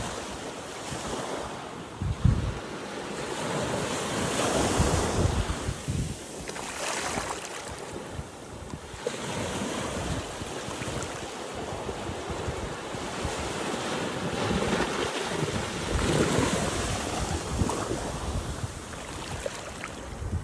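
Atlantic Ocean surf breaking and washing on the beach in swelling and ebbing surges. Wind buffets the microphone in low thumps, the strongest about two seconds in.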